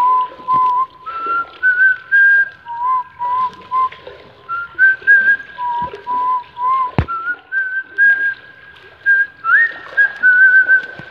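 A person whistling a tune in clear single notes, phrases moving between a lower and a higher pitch with small trills. A single sharp knock sounds about seven seconds in.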